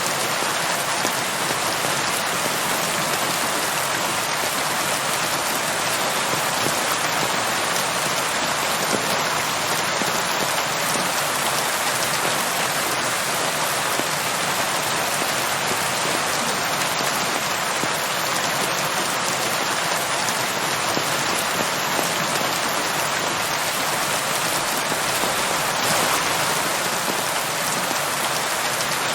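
Steady, even rain falling, a dense continuous hiss of drops on surfaces.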